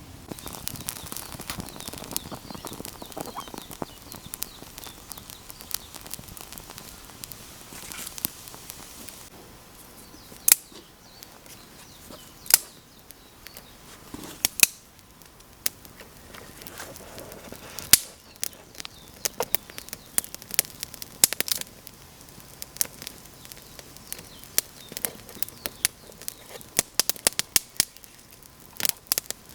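Wood campfire crackling, with sharp pops scattered irregularly that come thicker and faster in the last third.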